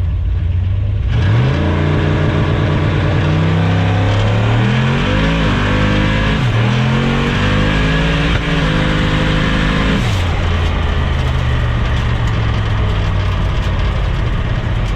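Turbocharged LS V8 in a Nissan pickup making a hard acceleration run: the engine note climbs about a second in, dips and rises again in the middle as the throttle is pedalled to keep traction, holds high, then falls back to a low steady idle about ten seconds in.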